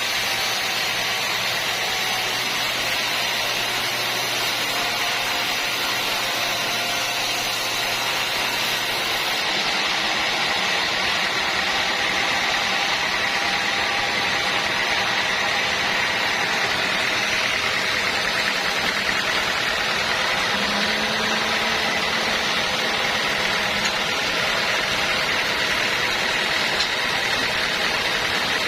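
Sawmill machinery running steadily, an unbroken mechanical noise at a constant level.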